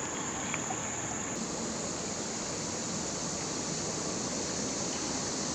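Shallow creek water running steadily over rocks, with a steady high-pitched insect drone over it.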